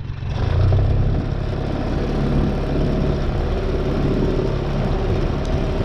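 An engine running steadily, a constant low hum with a rushing noise over it.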